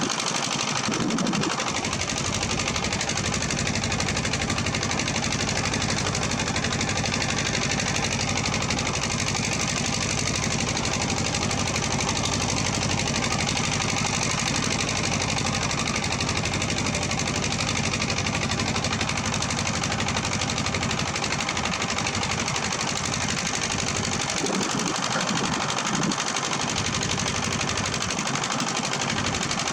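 Heavy-equipment diesel engine running steadily with a rapid clatter, briefly changing in pitch about a second in and again near the end.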